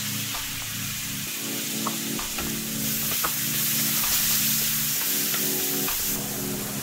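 Diced tomatoes sizzling in a hot frying pan as a wooden spatula stirs them, with small scrapes and taps of the spatula on the pan. The sizzle gets louder about three seconds in and eases a little near the end.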